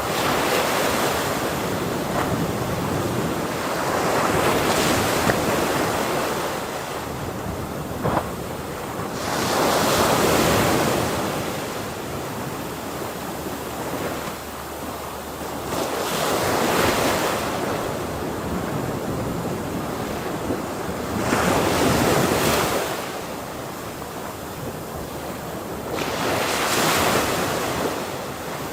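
Ocean waves breaking on a shore, each wave swelling to a crash and washing back, about one every five to six seconds.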